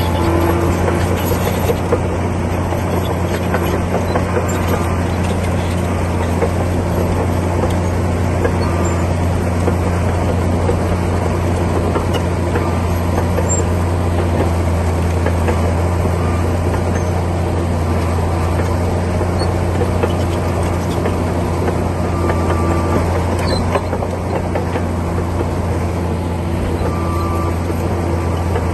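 Komatsu D60P bulldozer's diesel engine running steadily under work, with a constant deep drone.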